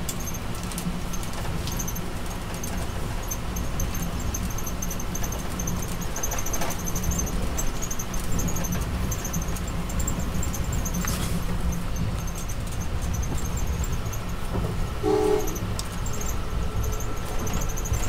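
Amtrak Keystone Service passenger train running at speed, heard from inside a passenger coach: a steady low rumble of the car rolling on the track, with faint high chirps coming and going above it. A brief pitched tone sounds about fifteen seconds in.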